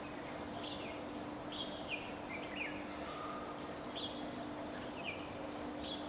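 Birds chirping: a string of short, quickly falling high notes at uneven intervals, over a steady low hum and background noise.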